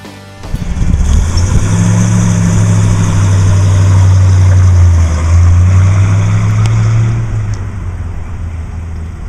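1967 Oldsmobile 442's 400 cubic inch V8 engine under acceleration as the car makes a drive-by pass, loudest around four to five seconds in, then easing off after about seven seconds.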